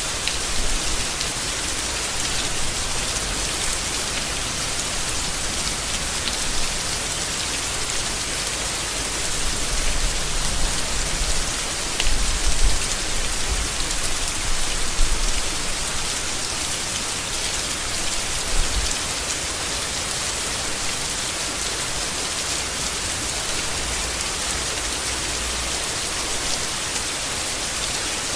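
Steady rain falling on leaves, an even patter of many drops. A few brief low rumbles come through in the middle.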